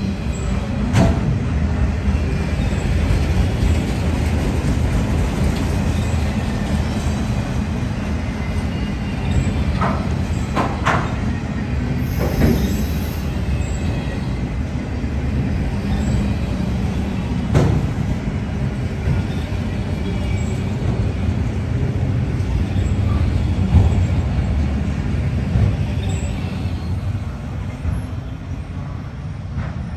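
Freight train of enclosed autorack cars rolling past: a steady rumble of wheels on rail, broken by a few sharp clanks, fading over the last few seconds as the rear cars pull away.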